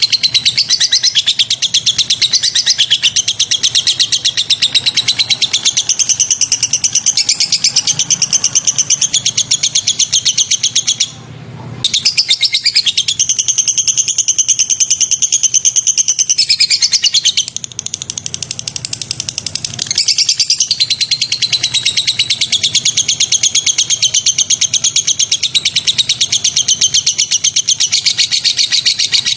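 Recorded songbird song for training caged birds: a continuous, very fast, high-pitched chattering trill. It breaks off briefly about eleven seconds in and softens for a few seconds around the middle before running on.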